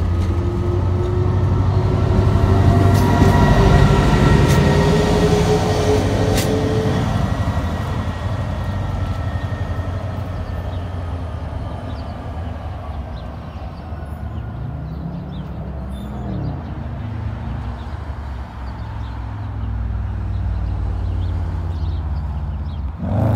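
New Jersey Transit PL42AC diesel locomotive shoving a train of Multilevel coaches out of the station: diesel engine rumble and rolling cars, with a whine rising in pitch as it accelerates over the first several seconds. It then fades steadily as the train draws away.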